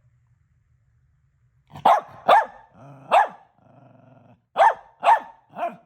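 A dog barking: six short, sharp barks starting about two seconds in, three and then a second run of three.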